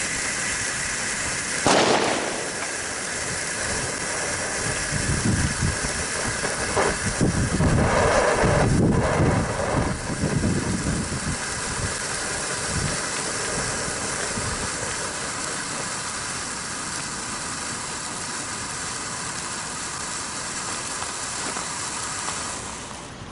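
Consumer fireworks going off: a steady hissing and crackling throughout, with a sharp bang about two seconds in and a run of louder bangs and crackles from about five to ten seconds in. The hissing dies away near the end.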